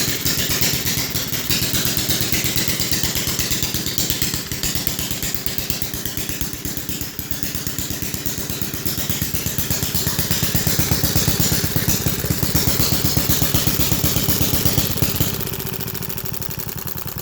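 1930s Johnson Iron Horse washing machine engine running after being kick-started, a fast, even popping of firing strokes. It gets quieter about two seconds before the end.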